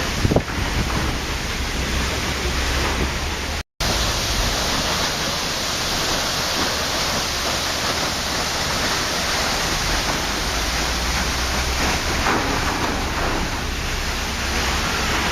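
Waterfall rushing as a steady, even roar of falling water. A brief louder burst comes just after the start, and the sound cuts out to silence for a split second about four seconds in.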